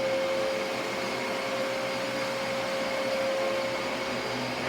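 Dyson DC-33 upright vacuum cleaner running at full speed: a steady motor whine at one pitch over a broad rush of air.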